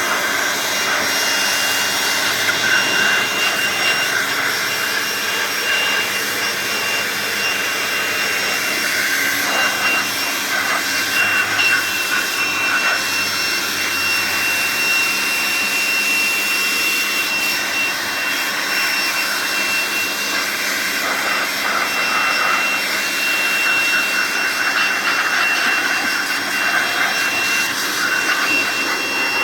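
Handheld electric air blower running steadily, blowing dust out of a side-by-side refrigerator, a loud rushing noise with a steady high whine.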